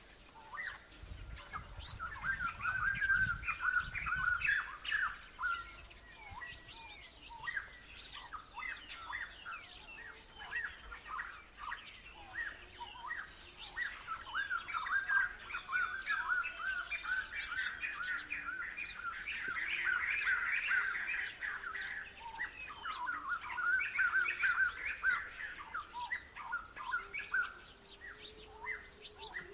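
A dense chorus of small birds chirping and twittering continuously.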